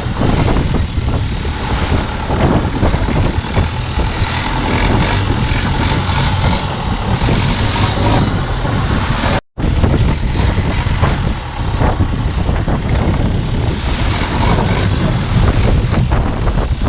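Longtail boat's engine running under way through choppy sea, mixed with wind buffeting the microphone. The sound drops out for an instant about halfway through.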